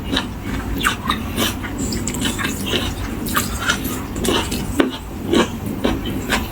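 Close-up eating sounds: food being chewed and crunched with the mouth near the microphone, in irregular short crunches.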